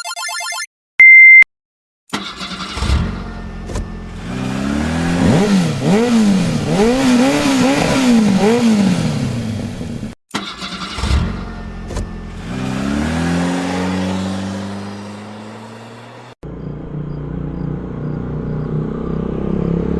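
A short loud beep, then vehicle engine sounds: the engine revs up and down repeatedly, cuts off abruptly, winds down in pitch, cuts again, and then runs steadily.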